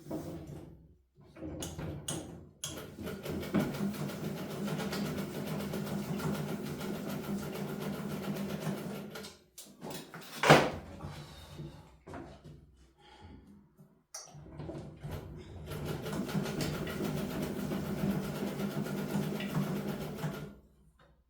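Domestic sewing machine stitching in two runs of several seconds each, with a single sharp knock between them.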